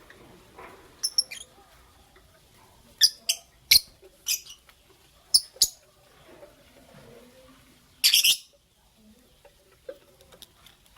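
Lovebirds chirping: short, sharp, high calls, singly and in quick pairs, with a longer call a little after eight seconds in.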